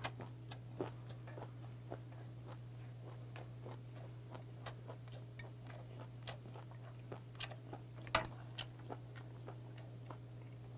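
A man chewing a mouthful of saury gwamegi wrapped in seaweed, mouth closed: a steady run of small wet clicks and smacks, a few louder ones about eight seconds in.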